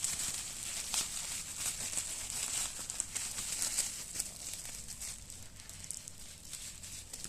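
Packing material, likely plastic, being handled and crinkled, a dense run of small irregular crackles that eases off slightly toward the end.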